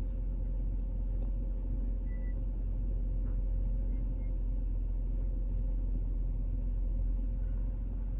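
2014 Mercedes-Benz C250's turbocharged four-cylinder engine idling during warm-up after a cold start, a steady low hum.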